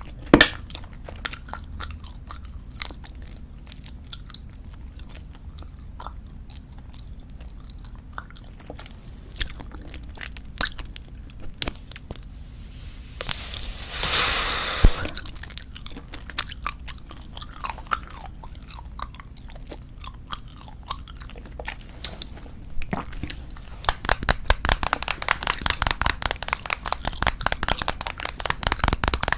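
Bubblegum chewed close to the microphone: sparse wet clicks and smacks, then a breathy rush about halfway through that ends in a sharp pop. Near the end the chewing turns fast, with a dense run of quick snapping clicks.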